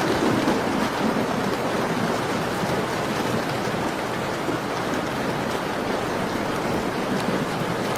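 Steady rain falling, an even hiss, with a few faint crackles of a wood fire.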